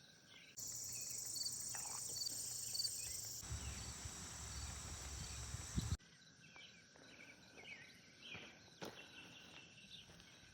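Faint summer outdoor ambience: insects trilling steadily with small chirps, birds calling faintly. A louder stretch with a low rumble, like wind or handling on the microphone, starts abruptly about half a second in and stops abruptly about six seconds in.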